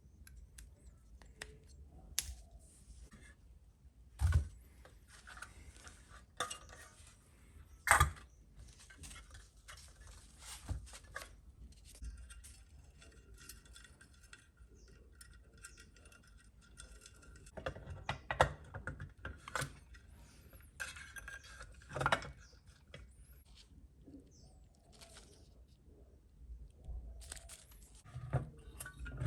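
Small metal parts and hand tools clinking and knocking on a work surface while a model kit is assembled by hand, with a few louder knocks spread through and light metallic jingling between them.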